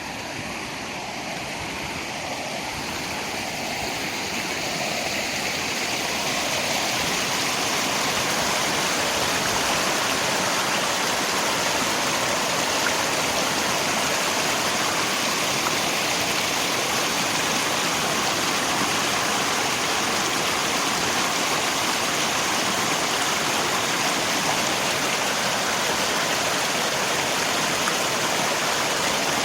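Steady, dense rush of rain and flowing river water. The level dips sharply right at the start and swells back up over the first several seconds, then holds even.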